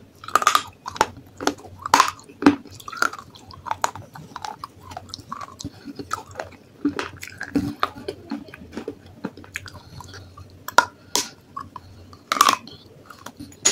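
Pieces of baked clay pot being bitten and chewed close to the microphone: irregular sharp crunches and snaps, with quieter grinding chews between them.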